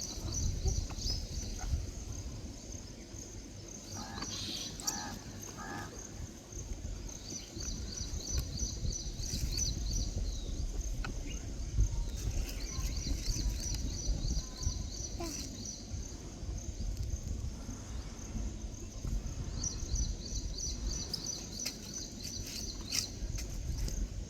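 Outdoor ambience with a steady low rumble. Several bouts of rapid, evenly repeated high-pitched chirping come and go, and three short pitched calls sound about four seconds in.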